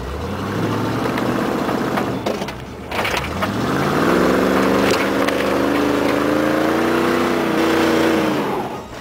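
A vehicle engine running, then revving up about three seconds in and held at high revs for several seconds before dropping back near the end.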